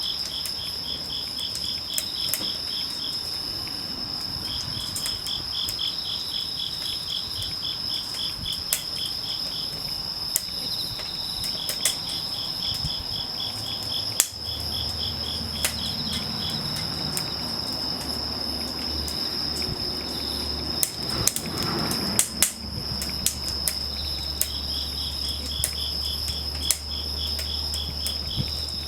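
Wood fire crackling with scattered sharp pops, over insects chirping: a steady high drone with repeated trains of quick pulses. A low hum comes in about halfway through.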